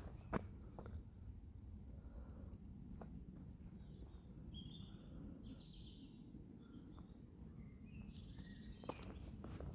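Quiet woodland ambience: a few short bird chirps in the middle, over a low steady rumble, with a couple of footsteps near the start and again near the end.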